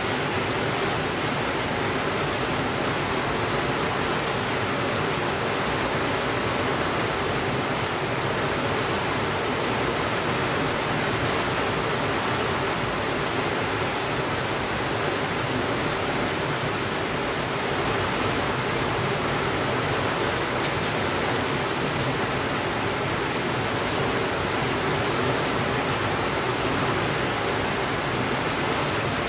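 Steady rainfall: an even, unbroken hiss with no thunder, with a couple of faint ticks in the middle.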